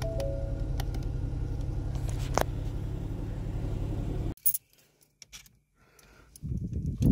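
Ford engine idling steadily, with the door-ajar warning chime sounding three notes at the start and a single sharp click about two and a half seconds in. The idle stops abruptly a little after four seconds, leaving near quiet, and a low rumble rises again near the end.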